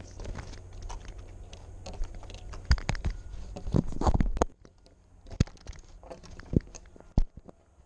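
Rapid clicking, scraping and knocking from a camera strapped to a moving cat: claws and the camera housing catching and rubbing. It is busy for the first four seconds, then drops to a few single sharp knocks.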